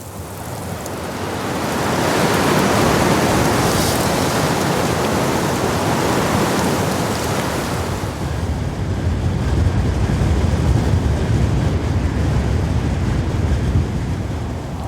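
Blizzard wind blowing hard, an even rushing that swells over the first two seconds and turns deeper and more rumbling after about eight seconds.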